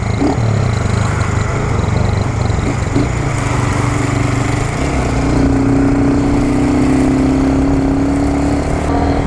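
Motorcycle engines running steadily. About three and a half seconds in, a second engine joins, holding one steady, higher note until just before the end.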